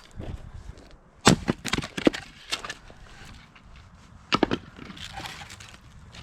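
Fiskars X27 splitting axe striking firewood. A sharp crack about a second in is followed by several smaller knocks of wood, with another strike about four seconds in.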